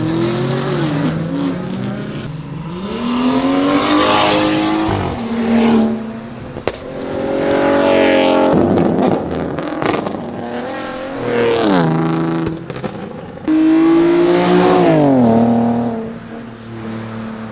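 Car engines revving hard as cars pull away, several times climbing in pitch and then dropping off, with a short stretch of crackling about halfway through. Near the end an engine settles into a steady idle.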